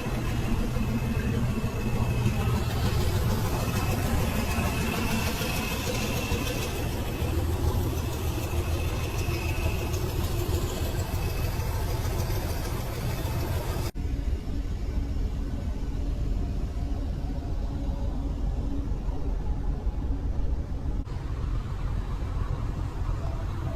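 Heavy military truck engines running in a convoy, a steady low rumble. The sound changes abruptly about halfway through.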